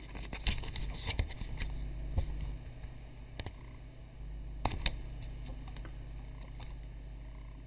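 Scattered small clicks and knocks, a cluster in the first second or two and a sharper pair just under five seconds in, over a steady low hum.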